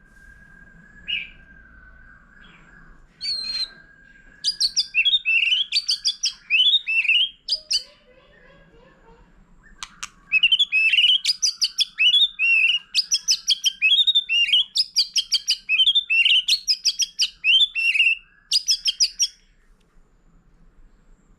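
White-rumped shama singing a rapid run of varied chirps and whistled notes, in two long bursts, the second about twice as long as the first, after a few short single calls.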